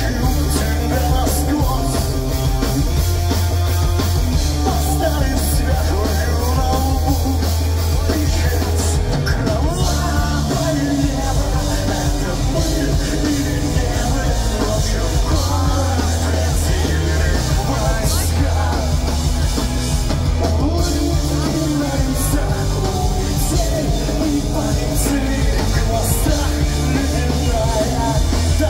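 Live pop-punk band playing loudly, with distorted guitars, bass and drums in a steady, continuous wall of sound.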